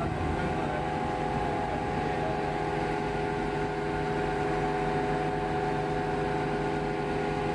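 Engine running at a steady speed: a constant drone with a low and a mid-pitched hum that holds unchanged throughout.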